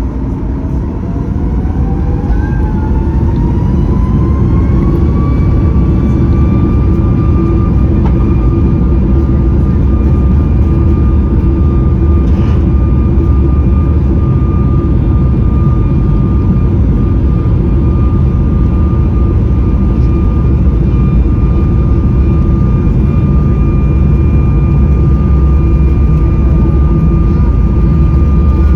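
Boeing 737 MAX 8's CFM LEAP-1B jet engines spooling up to takeoff thrust, heard from inside the cabin. A whine rises in pitch and loudness over the first five seconds or so, then holds steady over a loud, even roar and deep rumble.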